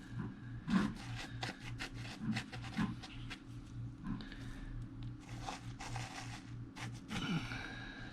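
Fingers working granular perlite incubation medium, gritty rustling and scraping with many small clicks, as eggs are nestled into a depression in it.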